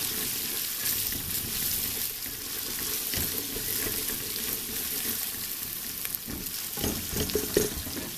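Onions, green chillies and ginger-garlic paste sizzling in oil in a metal pot on low heat while a spoon stirs and scrapes through them. A few louder knocks of the spoon against the pot come about seven seconds in.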